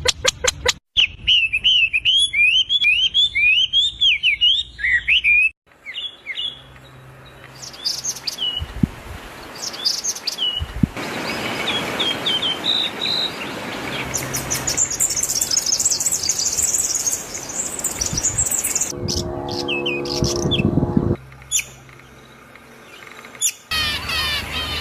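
Birds chirping and calling in a string of short bursts and trills. The background shifts abruptly several times, as at cuts between clips.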